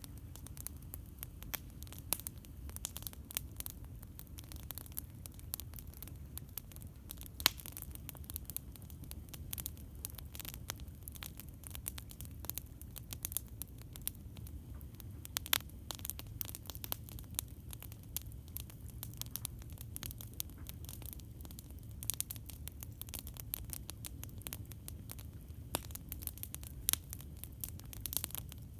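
Campfire crackling: irregular sharp snaps and pops over a steady low rumble, with a few louder pops.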